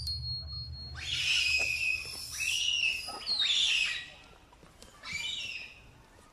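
Shrill, high-pitched animal squeals in several bursts with falling pitch, the longest for about three seconds and a shorter one about five seconds in, after a thin steady whistle at the start.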